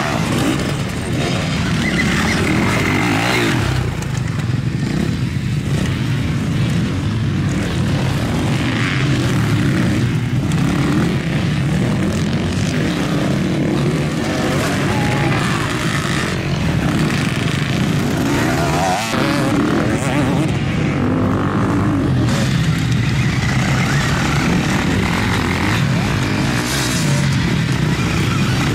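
Several motocross motorcycles racing together, their engines revving up and down and overlapping without a break.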